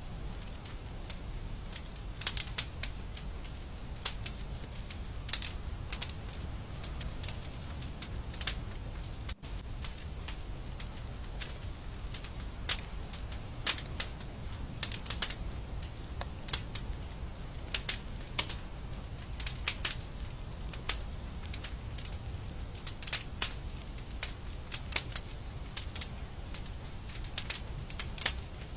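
Wood fire crackling: irregular sharp pops and snaps at uneven intervals over a steady low rumble.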